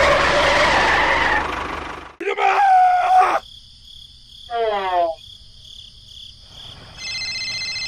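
A dubbed tractor engine runs with a low, even pulse, then cuts off about two seconds in. Short cartoonish voice-like calls follow, one falling in pitch, and about seven seconds in a steady electronic phone ring starts.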